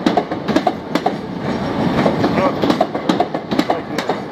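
Southeastern electric multiple-unit train rolling out over pointwork, its wheels clattering over the rail joints and crossings in a run of frequent sharp clicks over a steady rumble.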